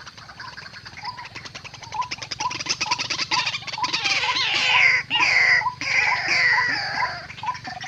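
White-breasted waterhen calling: short notes repeated about twice a second over a fast rattling chatter. From about four seconds in come loud squealing calls, each falling in pitch, then fading towards the end.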